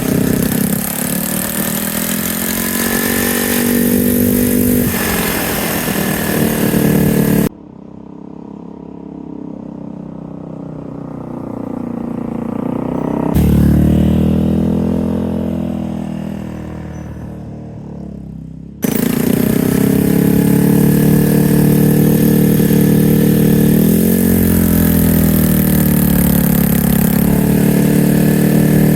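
Yamaha TW200's single-cylinder engine running under way, its pitch rising and falling with the throttle, over wind noise. About a third of the way in the sound cuts to a quieter stretch in which the engine grows louder, passes near the middle and fades away. It then cuts back to the loud riding sound.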